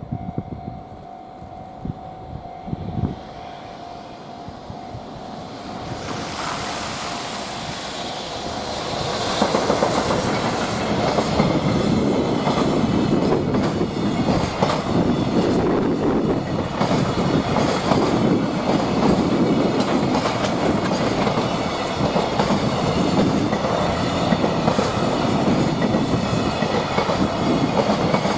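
Freight train approaching and then passing close by: a quieter build-up with a steady ringing tone, then from about nine seconds in a loud, continuous rumble of wagons with wheels clattering over the rail joints in a steady clickety-clack.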